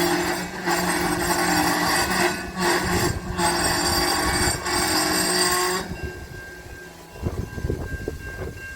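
Freight train passing close by: a steady low engine drone under loud rushing noise that dips briefly a few times, then drops to a quieter rumble about six seconds in.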